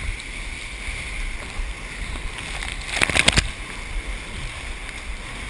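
Rushing ocean surf and water sloshing around a surf kayak, with a steady rumble, and a short burst of louder splashing a little after three seconds in.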